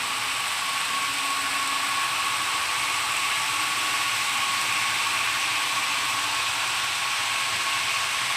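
HO-scale model train running on the layout: a steady small-motor whir and wheel noise on the track, with a thin constant whine, swelling a little in the middle.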